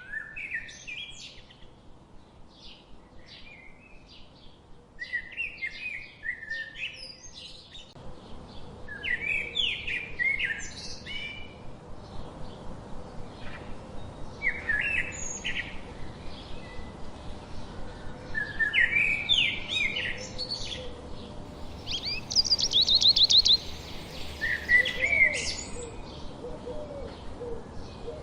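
Several songbirds chirping and calling back and forth in short high phrases, over a faint steady outdoor hiss. Near the end a fast high trill is the loudest sound.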